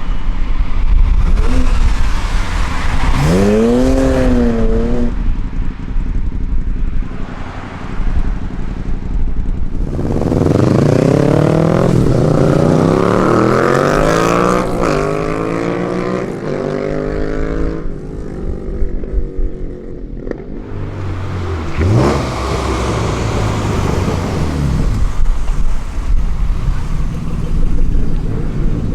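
Vehicle engines revving and accelerating away. A short rev blip a few seconds in, then the loudest part: an engine pulling hard for several seconds, its pitch climbing and dropping back at gear changes, with another rev a few seconds later.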